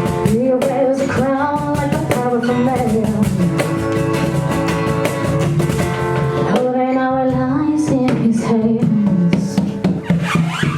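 Live band playing a song: a woman sings two long, wavering phrases over guitar and drum kit.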